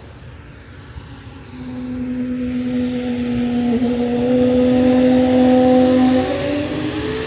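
Jet airliner passing low overhead, its engines building from a drone to a loud steady whine over a rushing hiss about a second and a half in, loudest a few seconds later, the whine shifting in pitch near the end.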